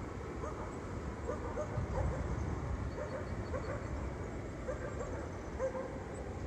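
Distant animal calls: short yips in small bunches of two or three, repeated every second or so, over a steady low rumble.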